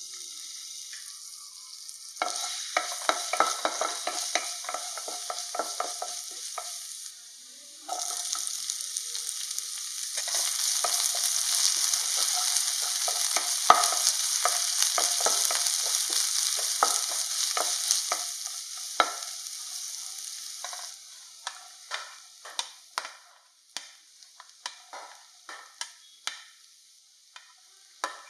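Chopped garlic and sliced onion frying in hot oil in a nonstick pan, sizzling while a spatula stirs and scrapes them in quick strokes. The sizzle gets louder about eight seconds in, then dies down after about twenty seconds, leaving separate spatula taps on the pan.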